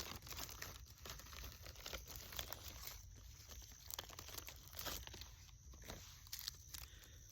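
Plastic MRE accessory packet and its small wrapped items being torn and handled: irregular crinkling and rustling of packaging.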